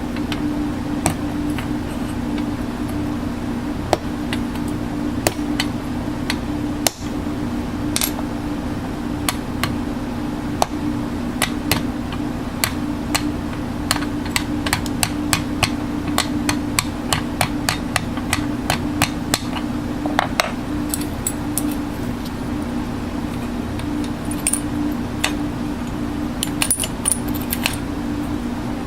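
Sharp taps and clicks, scattered at first and then in quick runs through the middle, over a steady low hum.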